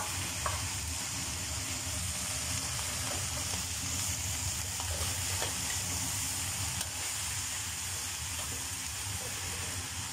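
Steady sizzling of rice vermicelli and shredded vegetables stir-frying in a hot wok. A few faint clicks come as the noodles are turned with a metal spatula.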